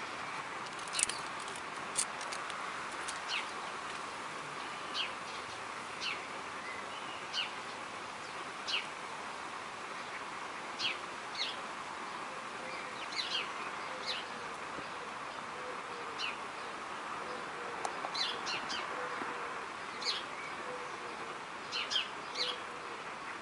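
Birds chirping: short, sharp, high chirps, about one every one to two seconds, some coming in quick pairs, over a steady background hiss.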